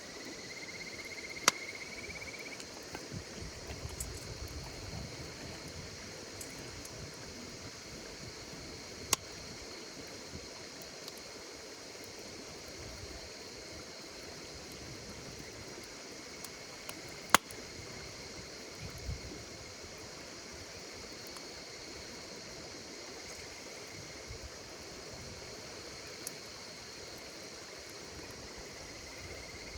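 Wood campfire crackling, with three loud sharp pops several seconds apart and smaller snaps between, over the steady chirring of insects.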